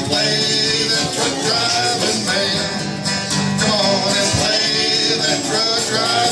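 Acoustic country music: a strummed acoustic guitar with other plucked strings, playing the closing bars of the song, with some singing over it.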